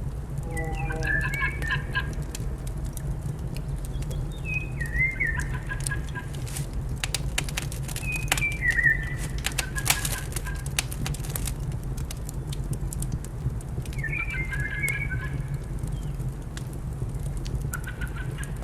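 Birds call in short pitched phrases about four times, near the start, around five and nine seconds in, and near the end, over a fire crackling with sharp pops, thickest in the middle. A steady low hum runs underneath.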